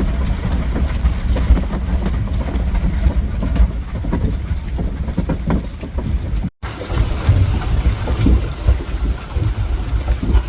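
Horse-drawn covered wagon rolling: a steady low rumble with irregular clatter and rattling. The sound cuts out briefly about six and a half seconds in.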